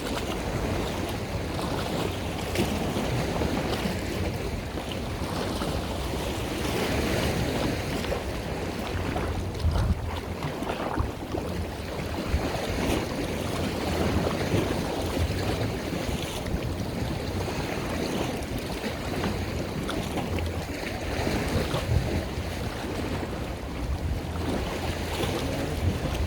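Wind buffeting the microphone over rushing water, with a steady low rumble underneath.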